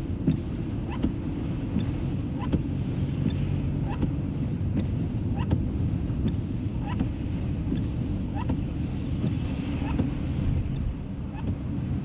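Steady low road and engine rumble inside a car driving on snowy roads, with a short rising squeak repeating about once a second.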